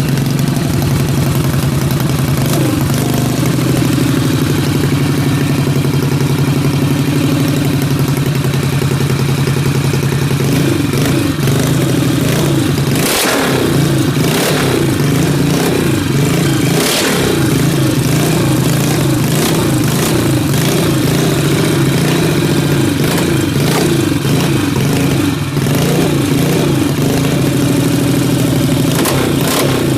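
A 1974 CCM motorcycle's four-stroke single-cylinder engine running, running sweet. It idles steadily at first, then from about ten seconds in the throttle is blipped, with the revs rising and falling repeatedly.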